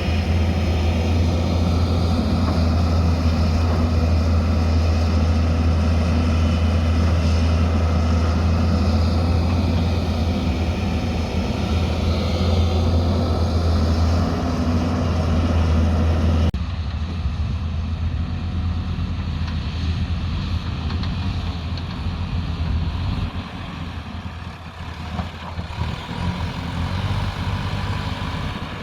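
Diesel engine of heavy earthmoving machinery running steadily with a deep hum. A little over halfway through it cuts abruptly to a quieter engine sound.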